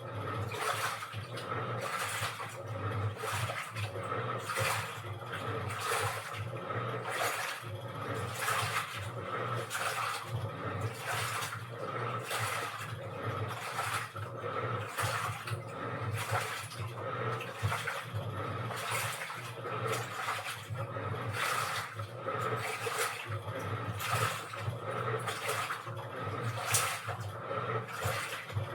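Washing machine running, water sloshing and splashing in the turning drum in quick irregular surges over a steady low hum.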